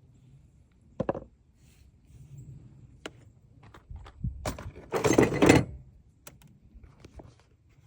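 A series of sharp knocks and clicks from objects being handled, with a short rattling clatter about five seconds in, the loudest moment.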